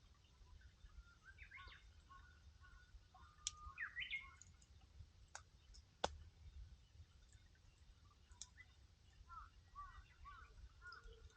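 Faint outdoor ambience of scattered bird chirps, in two short flurries, with a few single sharp pops from a burning wood campfire.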